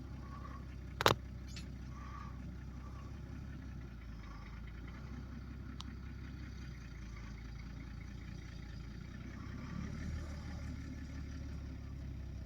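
Tractor engine running steadily, with a sharp click about a second in.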